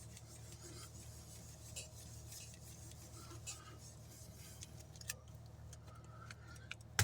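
Faint soft strokes and light taps of an ink blending brush working ink onto cardstock, every second or so, over a low steady hum.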